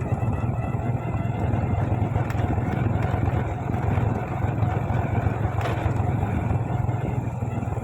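Small motorcycle engine running steadily at a low, even speed.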